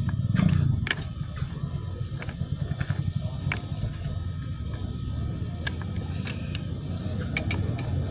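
A steady low rumble with scattered short, sharp clicks and taps; the rumble is a little louder in the first second.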